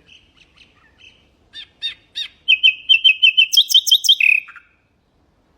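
Nightingale singing one song phrase: a few soft notes, then a fast run of repeated notes that jumps higher and ends on a lower buzzy note.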